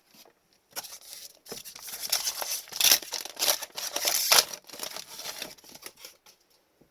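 A trading card pack's foil wrapper being torn open and crinkled by hand, a dense crackling that is loudest in the middle and dies away near the end.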